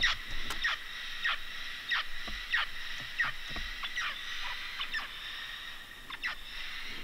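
Mealy parrots calling: a steady run of short, sharp, downward-sliding calls, about one or two a second, echoing off the walls of a sinkhole. A steady high-pitched drone runs underneath.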